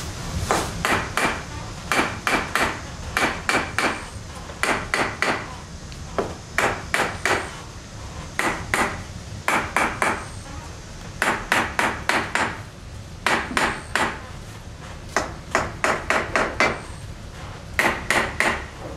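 Bricks being tapped down while the masonry heater's brickwork is laid: quick sharp knocks in bursts of three to five, a burst every second or two, each knock with a slight ring.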